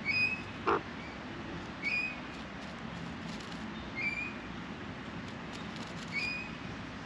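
A bird repeating a short, clear chirp about every two seconds, with a single sharp knock a little under a second in.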